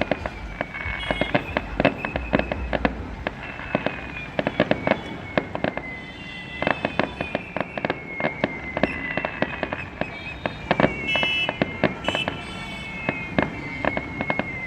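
Fireworks going off: a dense run of sharp, irregular cracks and pops, with a high whistling tone that keeps sliding down in pitch.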